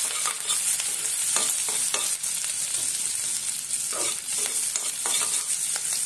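Chopped garlic and grated ginger sizzling in butter and oil in a non-stick kadhai, with a steady hiss. A steel spoon stirs them, scraping and tapping against the pan at irregular moments.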